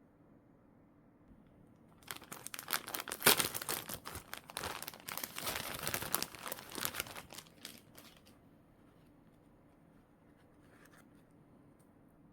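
Plastic packaging crinkling and tearing as it is handled and opened by hand, starting about two seconds in and lasting about six seconds, with the loudest crackle about a second after it starts. A few faint ticks follow near the end.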